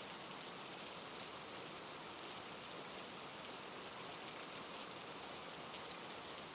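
Steady heavy rain pouring down, an even hiss with scattered drop ticks.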